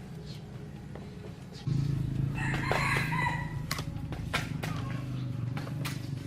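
A rooster crows once, about two and a half seconds in, over a steady low hum that starts suddenly just before it, with scattered knocks and clicks.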